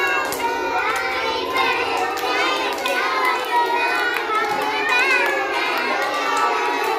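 A group of children shouting and chattering all at once, many high voices overlapping, with scattered short clicks.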